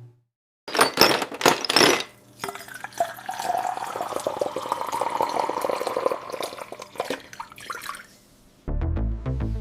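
Splashing, water-like noise: a few loud surges, then a steadier rushing wash for several seconds. Electronic music with a steady beat starts near the end.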